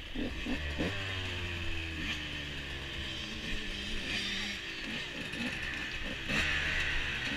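KTM 125 EXC two-stroke enduro engine idling steadily at a standstill, while other dirt bikes' engines rise and fall in pitch nearby.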